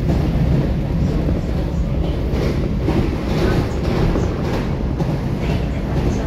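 Cabin noise inside a moving commuter train car: a steady low rumble of wheels on rail, with faint scattered clicks in the middle.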